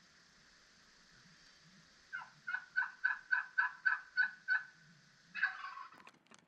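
Turkey yelping: a run of about nine evenly spaced yelps, roughly four a second, then a short, louder raspy call near the end.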